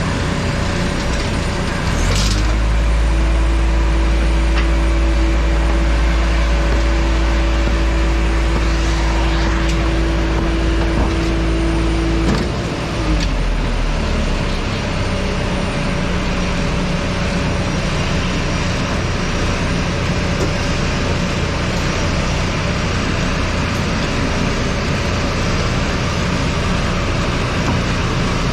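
Airport apron machinery during aircraft unloading: a steady mechanical hum throughout, with a motor that starts about two seconds in, runs at a steady pitch, then winds down and stops about twelve seconds in.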